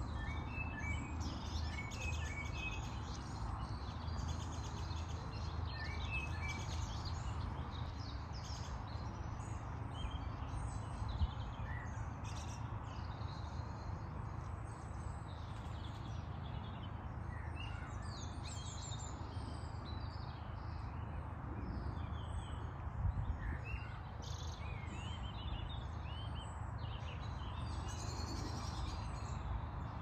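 Several songbirds chirping and singing, many short overlapping calls throughout, over a steady low background rumble.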